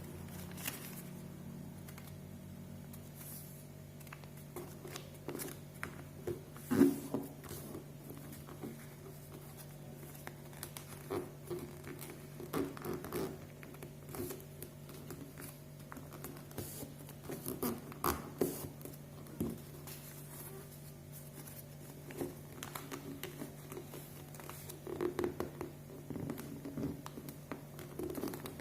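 Sheet of paper being folded and creased by hand: irregular rustles, scrapes and sharp crinkles, one louder about seven seconds in, over a steady low hum.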